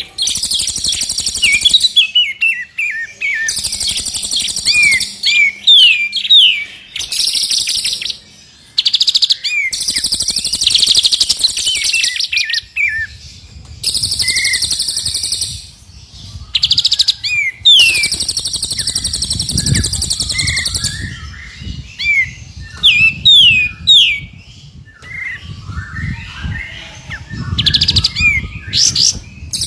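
Songbird song from a mix of several birds: quick, sharply sweeping whistled chirps alternate with long, dense, very high buzzing trills lasting a second or more each.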